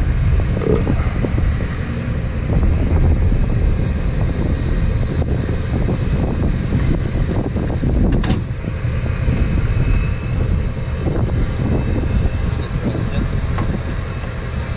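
Motor vehicle running with a steady low rumble and road or wind noise, and a single sharp click about eight seconds in.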